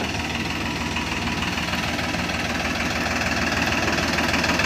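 An engine running steadily with an even hum that grows slightly louder toward the end.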